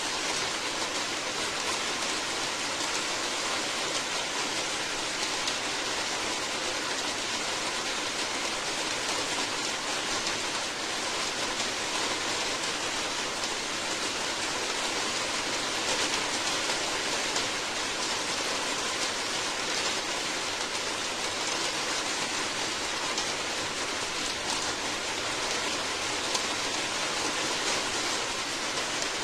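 Steady heavy rain, a dense even hiss of falling drops with no breaks or thunder.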